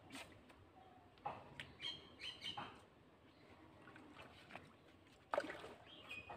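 Small birds chirping and calling in short high notes, with a brief held whistle near the end. A single short, sharp noise about five seconds in is the loudest moment.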